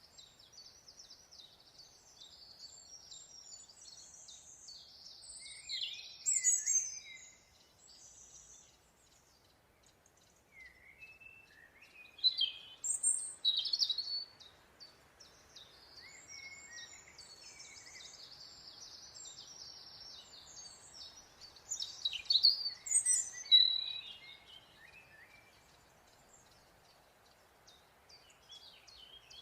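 Several wild birds singing and calling in high chirps and trills, with louder bursts of song three times, over a faint steady background hiss.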